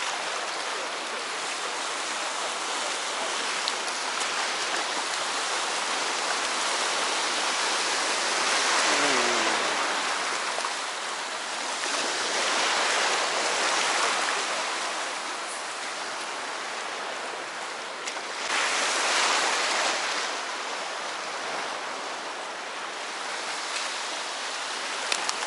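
Sea waves washing onto the shore in a steady hiss that swells every few seconds.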